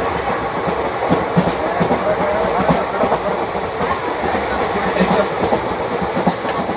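Loud running noise of Indian Railways ICF passenger coaches heard at the open gangway between coaches, at the screw coupling. Wheels clatter on the track with frequent, irregular metal knocks and rattles.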